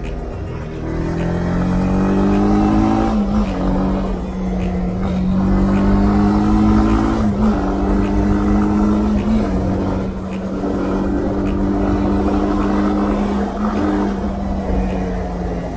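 Single-cylinder motorcycle engine under way, its note rising as it pulls and dropping back several times as the rider shifts or rolls off, with wind rumbling on the microphone.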